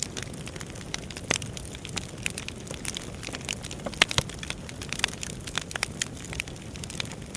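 Wood fire crackling: irregular pops and snaps of burning logs over a low, steady rush of flame, with one sharper pop about four seconds in.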